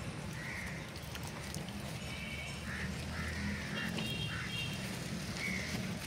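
Birds calling in a series of short, irregularly spaced calls, over a steady low hum.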